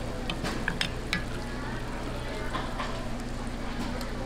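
Hotteok dough frying in shallow oil on a flat griddle: a steady sizzle with several sharp pops and clicks in the first second or so and again about two and a half seconds in.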